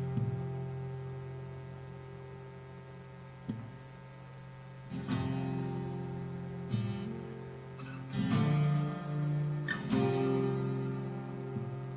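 Acoustic guitar music: strummed chords left to ring and slowly fade, with a fresh strum every second or two.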